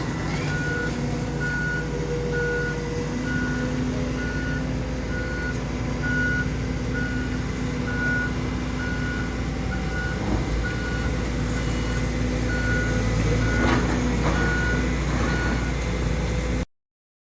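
Reversing alarm of a diesel construction machine on a demolition site, beeping steadily a little faster than once a second over the engine running. The audio cuts off suddenly near the end.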